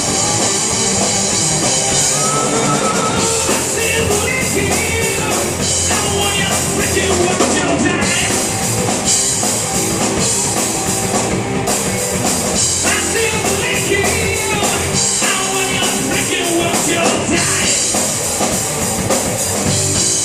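Live rock band playing: drum kit, guitar and bass, with some singing.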